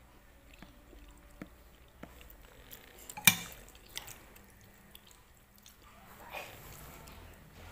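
Close-up mouth sounds of someone chewing a spoonful of macaroni soup, with a sharp clink of a metal spoon against the bowl about three seconds in and a smaller one just after as the next spoonful is scooped.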